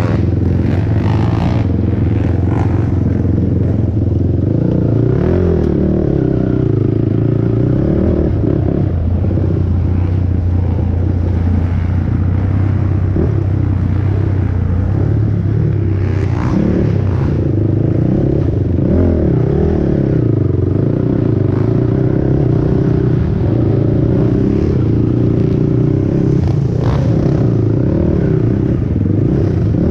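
Single-cylinder four-stroke engine of a 450R race quad running hard, the revs rising and falling as it is ridden.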